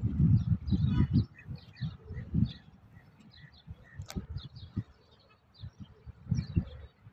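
Small birds chirping over and over in short, quick calls. Irregular low thumps run under them, loudest in the first second or so, and there is one sharp click about four seconds in.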